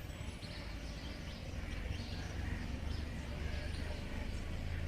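Birds chirping with short, scattered high calls over a steady low rumble of outdoor background noise.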